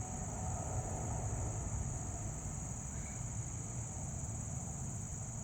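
A steady, high-pitched chorus of chirping insects, with a low rumble underneath.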